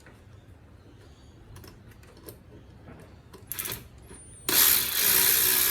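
A few light clicks of tools being handled, then, about four and a half seconds in, a cordless power tool starts suddenly and runs steadily, undoing a bolt.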